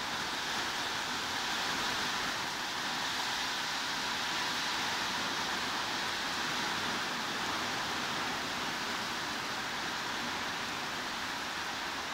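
Heavy rain falling as a steady, even hiss, with no separate drops standing out.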